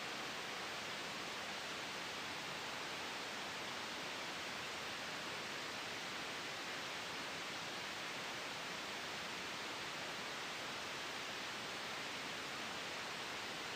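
Steady synthetic white noise blended with a gentle wind ambience: an even, unchanging hiss.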